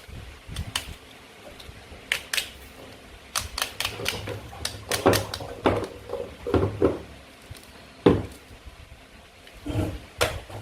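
Toy knife and play food clicking and knocking against a cutting board: an irregular run of sharp clicks and knocks, the loudest about eight seconds in.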